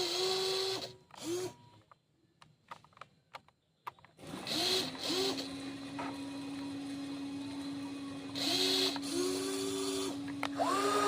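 Small electric motors of a radio-controlled toy excavator whining in short bursts, each rising quickly in pitch as it starts. From about four seconds in, one motor runs in a steady whine while others cut in and out over it.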